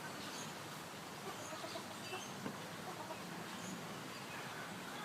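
Short, high animal chirps and calls, a couple a second, over a steady background hubbub.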